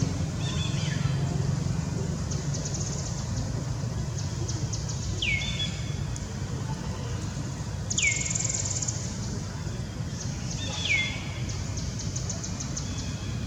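A bird calling: a short whistle sliding sharply down in pitch, given four times about every three seconds. Behind it are rapid high trills and a steady low rumble.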